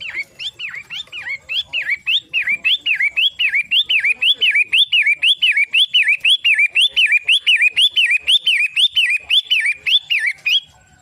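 Long-tailed shrike (cendet) giving the same sharp call over and over, about three notes a second, each note dipping in pitch and then rising again. The calling stops abruptly near the end.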